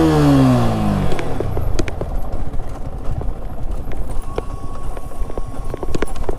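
Benelli 600i motorcycle's inline-four engine: its note falls away over the first second as the revs drop, then settles into a low, uneven rumble with scattered knocks as the bike rides slowly.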